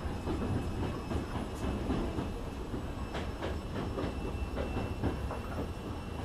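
Hankyu 7000 series electric train heard from inside a car: a steady low rumble with a run of clicks and knocks about three to five seconds in.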